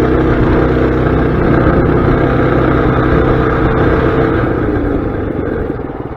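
Mini bike's small engine running hard, then fading near the end.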